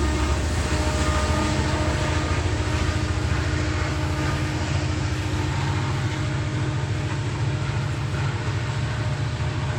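A coal train rolling past close by: a heavy, steady low rumble of locomotives and loaded cars on the rails, with faint steady tones that fade out about seven seconds in.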